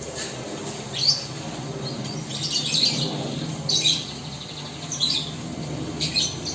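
Caged pet birds calling: about five short bursts of sharp, high chirps and squawks over a low steady hum.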